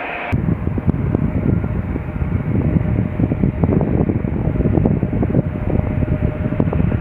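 Low, uneven rumble of jet airliner engines, starting abruptly a moment in, with a faint steady tone joining about halfway.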